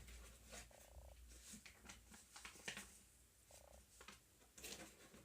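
Near silence, with a few faint clicks and rustles of packaging being handled and two brief faint buzzes, about a second in and about three and a half seconds in.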